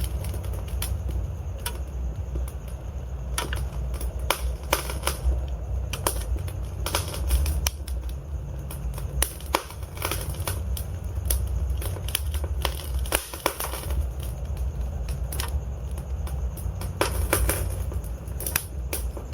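Logs burning in a fireplace, crackling: irregular sharp pops and snaps over a steady low rumble of the flames.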